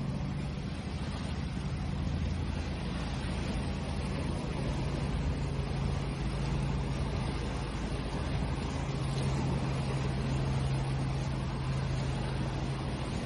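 Steady wash of sea waves with slight swells, over a constant low hum.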